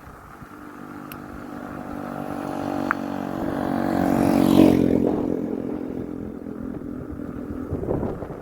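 A motor vehicle's engine passing by, growing louder to a peak a little past halfway and then fading away.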